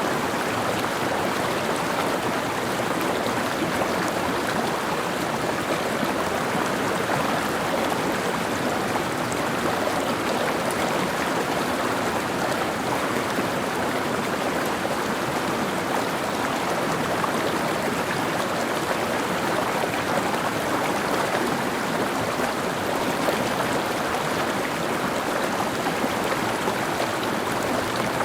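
Mountain stream flowing steadily over rocks: a constant, even rush of water.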